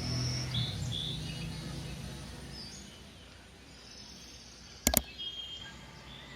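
Birds chirping in short high calls over a low hum that fades over the first couple of seconds, with a sharp double click about five seconds in.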